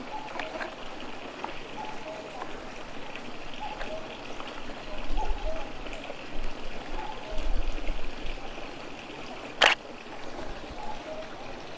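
Frogs calling in short, irregularly repeated notes over a steady trickle of flowing water, with a single sharp click near the end.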